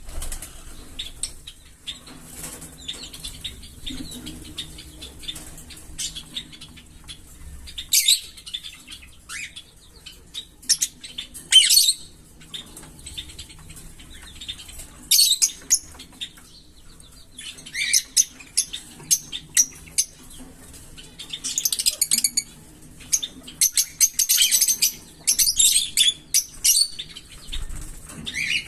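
Small pet parrots chirping and chattering in irregular bursts of short, sharp high-pitched calls, with lulls between.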